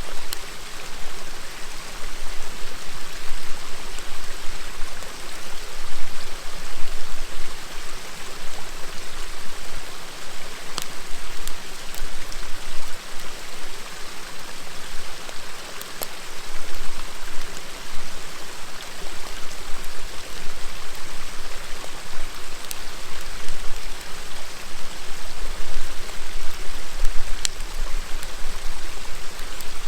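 River water flowing and murmuring steadily, with a few sharp crackles from a wood campfire scattered through it.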